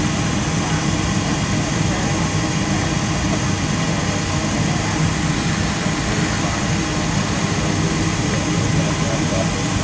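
Steady hum and rush of air inside a Boeing 737-300 cabin parked at the gate, with a low rumble and a faint steady whine running through it.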